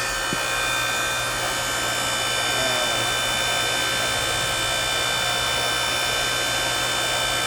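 Electric motor and hydraulic pump of an 8-ton electric log splitter running steadily, a constant hum with a high whine.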